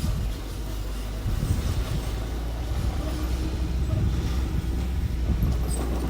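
Diesel engine of heavy earthmoving machinery running steadily with a low, continuous hum.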